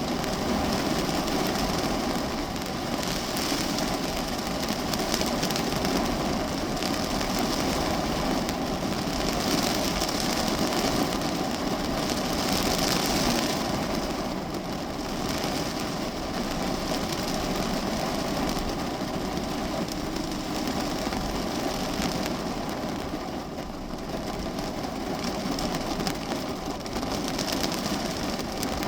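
Steady rain on the body of a parked car, heard from inside the cabin, with a steady hum underneath; the rain swells and eases now and then.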